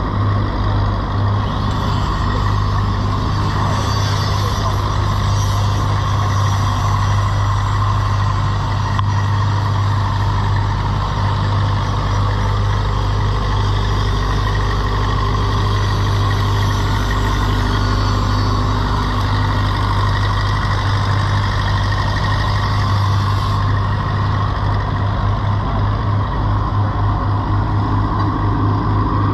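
An engine running steadily, giving a constant low drone.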